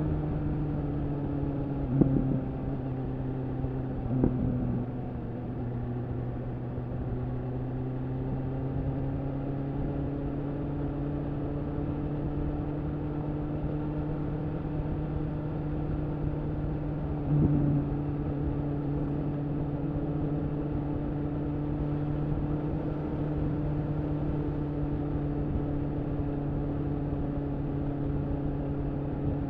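BMW S1000RR's inline-four engine running through an Akrapovič slip-on exhaust at a steady cruise. The note eases down a little at first, then holds level, with brief sharp bursts about 2, 4 and 17 seconds in.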